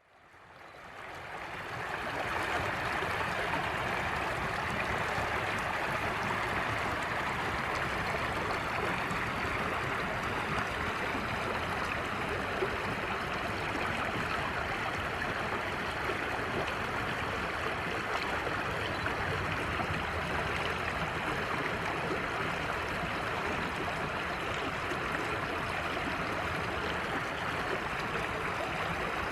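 Steady rushing of flowing water, fading in over the first two seconds and then holding even.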